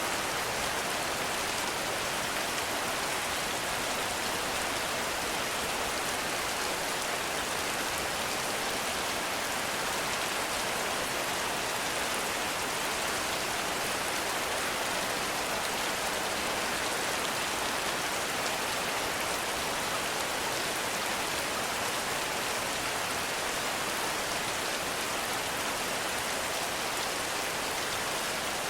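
Heavy rain falling steadily, an even hiss of countless drops with no breaks or thunder.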